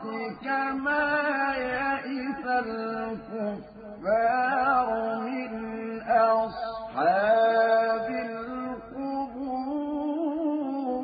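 A man chanting Quran recitation in melodic tajweed style, drawing out long, wavering held notes in phrases with two short breaks for breath.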